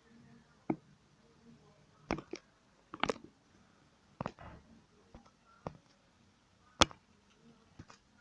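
Lego pieces clicking and tapping as they are handled: about a dozen short, sharp clicks at uneven intervals, the loudest about seven seconds in.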